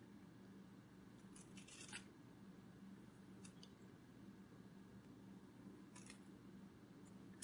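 Near silence: a faint steady low hum with a few faint, crisp clicks, a cluster about a second and a half in and single ones later.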